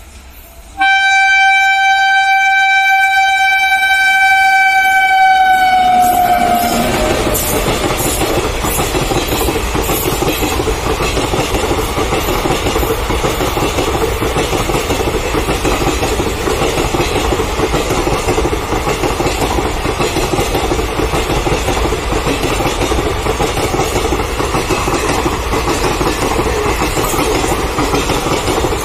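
Indian Railways electric locomotive sounding one long horn blast of about six seconds, its pitch dropping a little at the end as it passes. The long rake of NMG covered wagons then rumbles and clatters past steadily.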